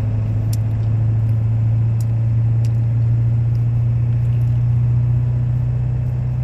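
Steady low drone of a moving car heard inside the cabin, with a few faint clicks.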